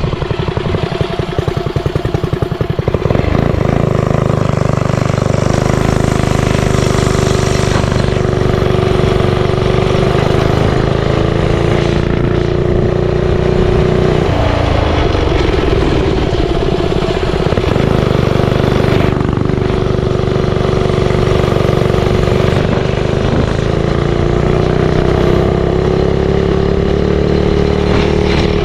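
Mini bike's small single-cylinder engine under way. It chugs at low revs for the first few seconds, then picks up and holds speed, eases off briefly around halfway and speeds up again near the end.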